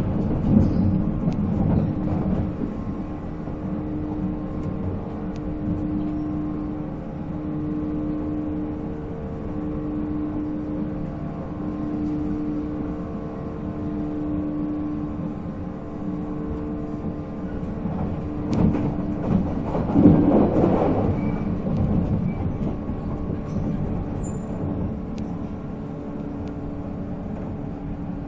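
JNR 485-series electric train running at speed, its MT54 traction motors giving a steady, slightly pulsing whine over the rumble of the wheels, with scattered clicks from the rails. About 18 to 22 seconds in, the rumble swells louder for a few seconds, then settles.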